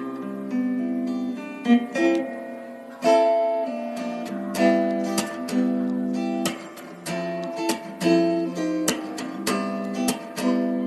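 Background music on acoustic guitar, plucked and strummed chords changing every second or so.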